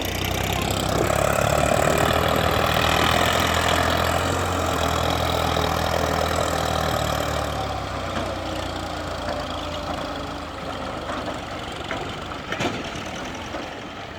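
Tractor engine running steadily, dying away after about eight seconds, with one sharp click near the end.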